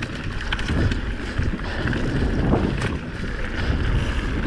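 Mountain bike riding fast down a dirt forest trail: tyre noise over the ground with frequent small knocks and rattles from the bike, and wind on the microphone.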